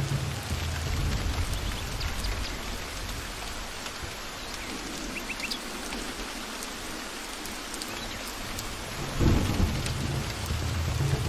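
Steady rain falling, with low rumbling thunder. The thunder dies down through the middle and rolls back in with a sudden swell about nine seconds in.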